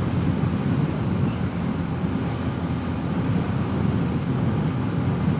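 Bajaj Pulsar N250's single-cylinder engine running steadily while riding on the road, with wind rushing over the microphone.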